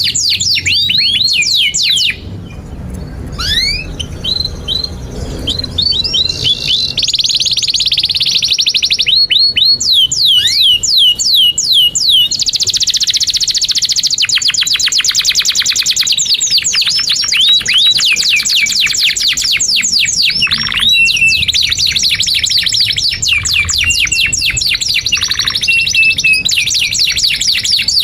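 Domestic canary singing a long, continuous song of rapid trills and quick down-slurred chirps, easing off briefly about two seconds in before the trilling picks up again.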